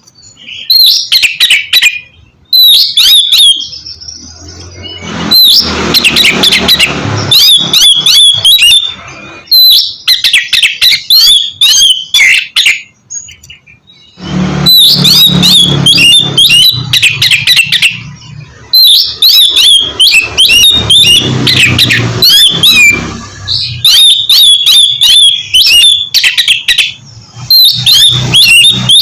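Oriental magpie-robin (kacer) singing in loud, fast bursts of varied whistles and sharp notes, broken by short pauses, with a low rumble under some of the phrases.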